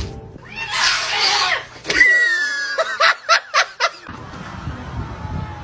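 A hiss, then a short high-pitched laugh of about five quick bursts in a second.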